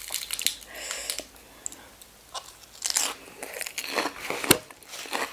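Close-miked biting and crunchy chewing of crisp lettuce leaves, in irregular crunches. The sharpest crack comes about four and a half seconds in.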